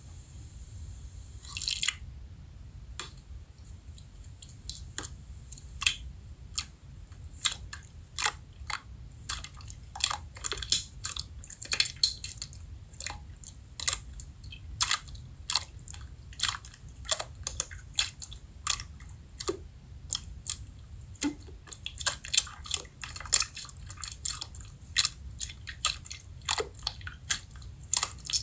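Slime being squeezed and poked by hand, giving a steady stream of crisp, irregular clicks and pops over a low hum.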